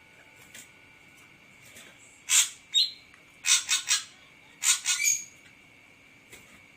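Ashy drongo calling in short, harsh, scratchy bursts: one about two seconds in, another just after, a quick run of three around three and a half seconds, and two more near five seconds, some ending in a brief clear whistled note.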